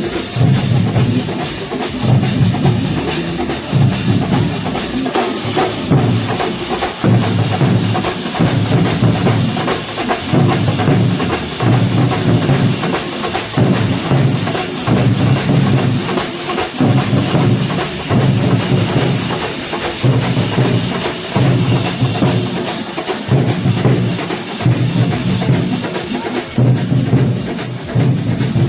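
Kerala chenda drum ensemble playing a fast, dense rhythm of stick strokes, with heavy low beats about once every second or so.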